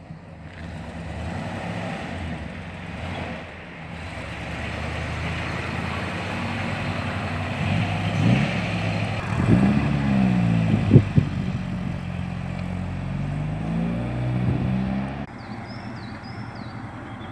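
A car engine driving past close by, revving up and down, with two sharp pops about eleven seconds in. The engine sound drops off abruptly near the end.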